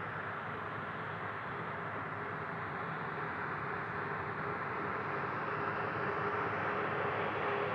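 Aircraft turbine engines running steadily, with a faint high whine over a broad rush, growing a little louder in the second half.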